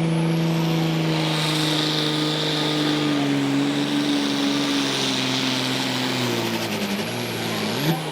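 Naturally aspirated pulling tractor engine at full throttle hauling a weight-transfer sled. Its pitch sinks slowly as the sled pulls the revs down. Near the end there is a brief rev blip, then the throttle is cut.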